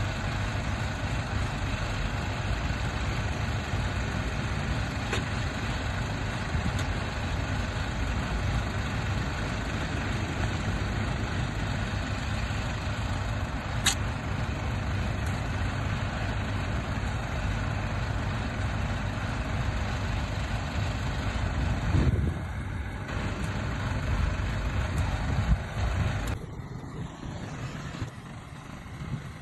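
Heavy diesel earth-moving machinery running steadily with a low rumble, with a sharp click about halfway through and two louder swells near the end, after which the engine sound falls away.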